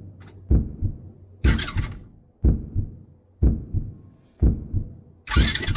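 Heartbeat sound effect: a low double thump, lub-dub, repeating about once a second. Two short hissing bursts cut in, about one and a half seconds in and again near the end.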